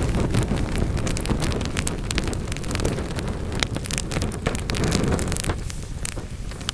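Wood fire burning in a fireplace: dense crackling and sharp pops from the logs over a low rumble of the flames, which eases off near the end.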